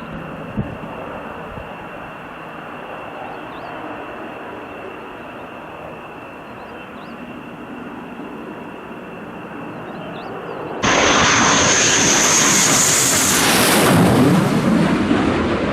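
Military jet engines: a steady jet noise with a high whine, then about two-thirds of the way through a sudden much louder jet noise whose whine falls in pitch as the jet passes close.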